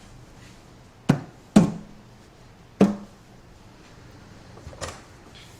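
Three sharp metallic knocks, each with a short ring: a tool striking the engine's oil pan to break it loose from the block. A lighter clatter follows near the end.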